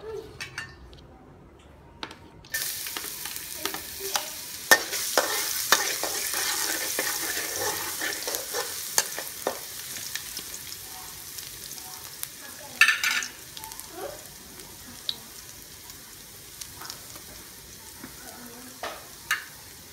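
Chopped garlic sizzling in hot oil in a steel wok: the sizzle starts suddenly a couple of seconds in and slowly dies down. A spatula clicks and scrapes against the wok as it is stirred, loudest about two-thirds of the way through.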